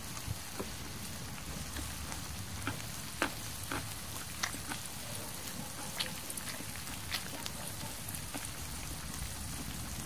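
Pork belly sizzling on a stone griddle over a wood fire: a steady hiss with scattered sharp pops at irregular moments.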